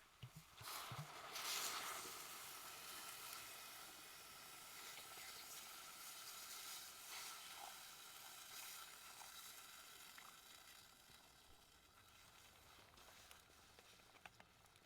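Faint sizzling from food cooking over a wood fire. It swells suddenly about a second in, then slowly dies away.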